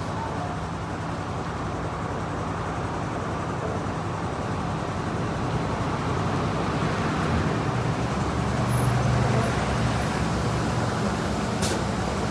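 Route bus diesel engine idling steadily, with a short click near the end.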